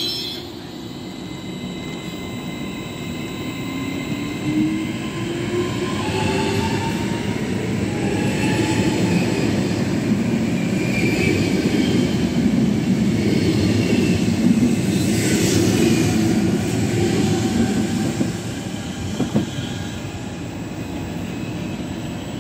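Regional electric train moving along the platform track: a rising motor whine as it gets going, then a loud rumble of wheels on the rails that fades away near the end.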